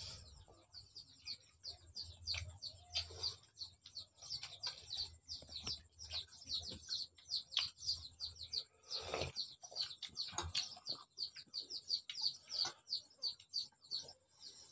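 Small birds chirping continuously, a rapid string of short, falling chirps, with a brief louder noise about nine seconds in.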